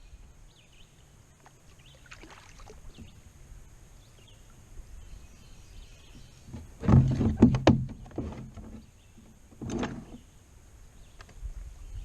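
Kayak paddle strokes, with a cluster of splashes and knocks about seven seconds in and another near ten seconds. Birds chirp faintly.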